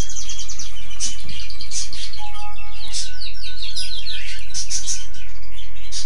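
Many small birds chirping and twittering together in a busy chorus of quick notes, with a few short held whistles, over a steady low hum.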